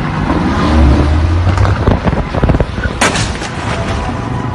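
Vehicle crash: a heavy rumble, then a run of sharp knocks and a loud bang about three seconds in.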